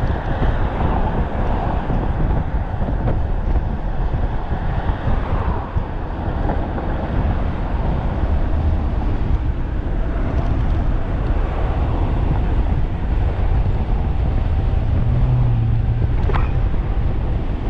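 Heavy wind buffeting the microphone of a rider on a 1500-watt e-bike at speed, a steady rushing rumble. A brief sharp sound cuts through near the end.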